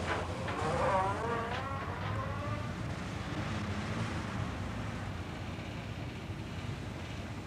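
Car engine running steadily, with a wavering high-pitched cry rising and falling for about two seconds near the start.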